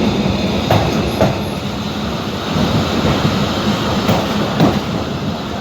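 Passenger train running on the rails, heard from inside a carriage: a steady rumble and hum with a few sharp knocks from the wheels over the track.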